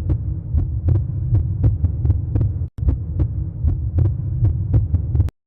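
A low throbbing rumble with sharp ticks about three to four times a second. It starts and stops abruptly, with a brief break partway through.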